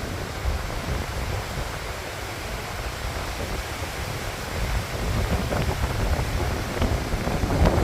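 Hurricane wind rushing and buffeting the microphone with a low rumble, growing stronger in gusts in the second half.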